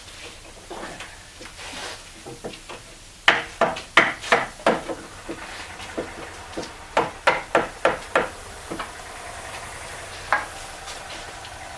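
Hammer striking to drive a mounting bolt through an outboard motor mount: a run of a dozen or more sharp knocks, some in quick pairs, starting about three seconds in, with one last knock near the end.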